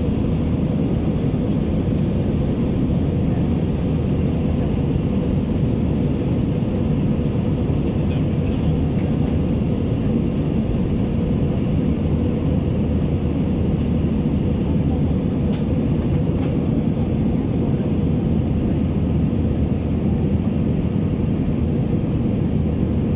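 Steady engine and airflow noise inside a passenger airplane's cabin: an even low rumble with a constant hum running through it. There is one brief click about two-thirds of the way through.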